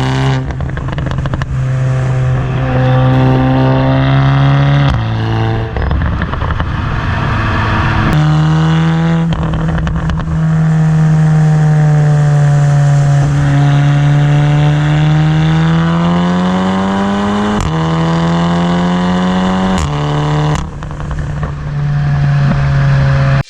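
Turbocharged 2.0-litre four-cylinder of a Volkswagen Golf R (Mk7.5) running loud through an APR downpipe and valved catback exhaust while being driven. The drone holds steady or rises slowly, and its pitch changes abruptly several times, as at gear changes.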